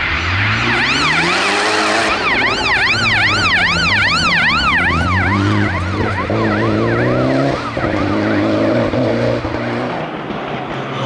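A car accelerating and changing gear, with a siren yelping rapidly up and down over it, about two to three sweeps a second. The siren fades out about six seconds in while the engine carries on.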